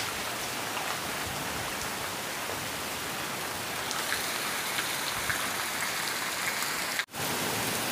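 Heavy rain falling steadily, growing stronger from about four seconds in. The sound cuts out for an instant just after seven seconds.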